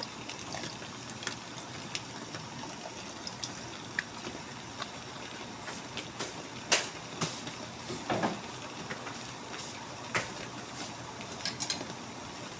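Chicken asado sauce simmering and bubbling in a pan, a steady hiss with scattered sharp clicks and clinks.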